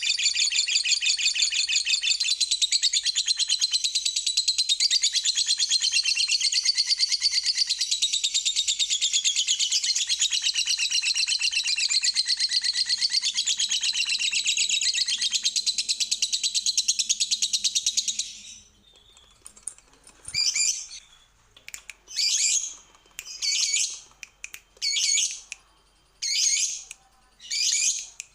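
Lovebird singing one long, unbroken, rapid chattering trill (the long 'ngekek' song that keepers prize), which stops after about eighteen seconds and gives way to short separate chirping bursts about once a second.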